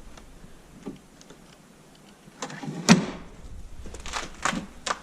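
A few sharp knocks and scrapes, the loudest about three seconds in, followed by several lighter knocks near the end.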